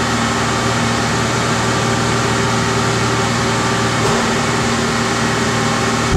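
Car engine idling with a fan running: a steady hum and hiss with one constant low drone.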